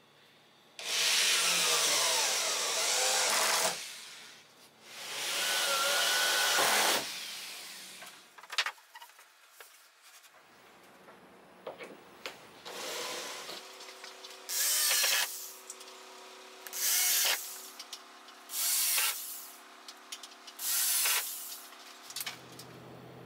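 A power tool working wood in bursts: two long runs of about three and two seconds, a few sharp knocks, then four short bursts about two seconds apart.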